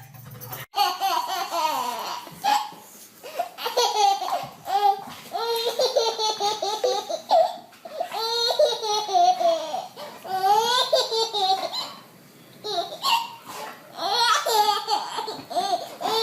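Young child laughing in repeated high-pitched bursts of giggles, with brief pauses between them.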